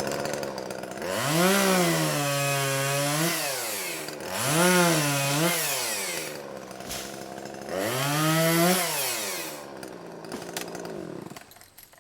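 Chainsaw idling, then revved up three times, each time settling to a lower steady pitch as it cuts into small timber and falling back to idle in between. The engine stops near the end.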